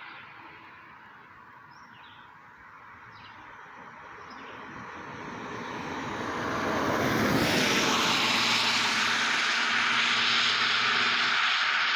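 A vehicle's noise swelling over several seconds as it approaches, then holding loud and steady, with a few faint bird chirps in the quiet stretch before it.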